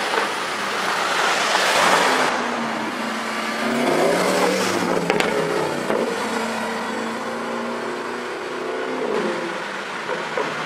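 Supercar with an Akrapovic exhaust accelerating and revving, its engine note rising and falling several times.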